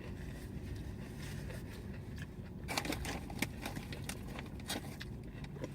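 Quiet eating and food-handling sounds: soft crackles and rustles in a cluster about three seconds in and a few more near five seconds, over a steady low hum.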